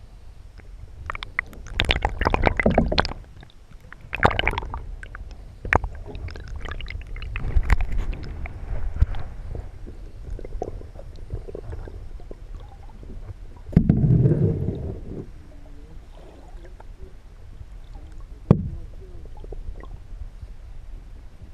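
Muffled gurgling and sloshing of river water heard through a camera held underwater: a steady low rumble with several louder gushes of bubbling water and one sharp knock a few seconds before the end.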